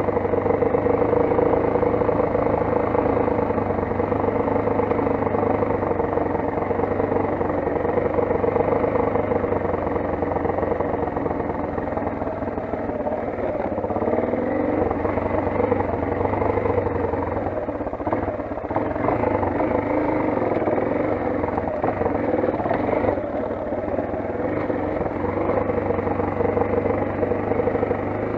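Motoland XR 250 dirt bike engine running steadily, its pitch rising and falling for a while in the middle as the throttle is worked.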